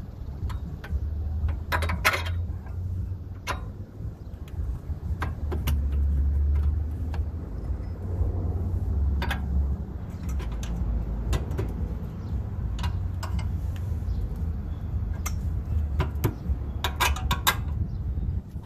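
Sharp metal clinks and ticks of hand tools and bolts being worked on an ATV's hitch mount, scattered, with a quick run of clicks near the end, over a steady low rumble.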